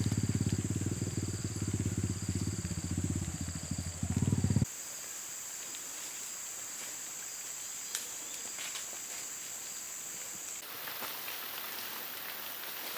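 An engine running with a fast, even low throb for about four and a half seconds, then cut off abruptly. Forest insects take over, a steady high buzz with a shorter chirp pulsing under it, joined by a steady hiss about ten seconds in.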